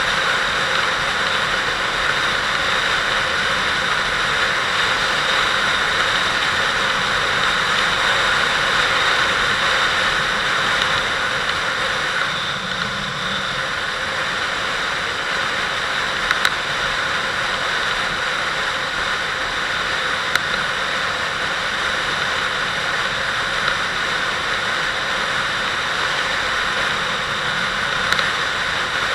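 Kawasaki Vulcan 800 V-twin motorcycle engine running steadily, under a constant rush of wind noise on the microphone.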